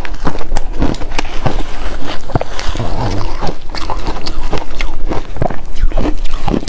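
Close-up crunching and chewing of ice cubes, frozen matcha, in the mouth: a dense run of sharp cracks and crackles as the ice breaks between the teeth.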